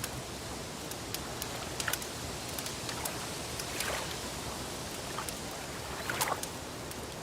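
Wood fire crackling: irregular sharp pops and snaps, a few louder ones about two, four and six seconds in, over a steady rushing hiss.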